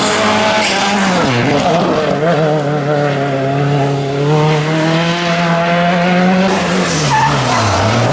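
Rally car engine running hard on a stage. The pitch drops about a second in, holds steady, then dips and climbs again near the end as the throttle is lifted and reapplied.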